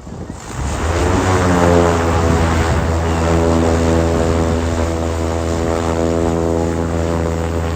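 Extra 330 aerobatic plane's piston engine and propeller, loud and swelling in about a second in as it flies past, its pitch falling slightly and then holding steady.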